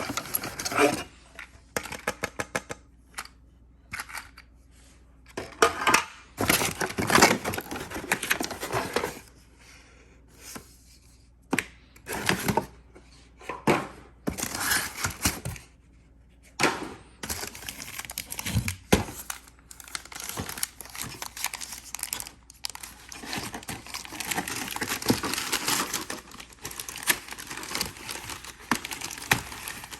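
Packaging being unwrapped by hand: plastic and paper crinkling and tearing in irregular bursts, with clicks and knocks from parts being handled between pauses.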